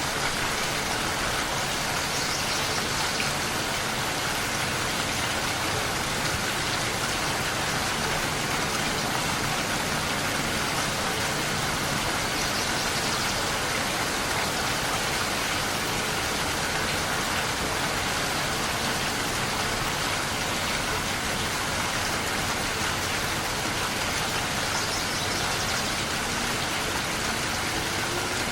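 Steady rain falling, an even, unbroken hiss of drops at a constant level.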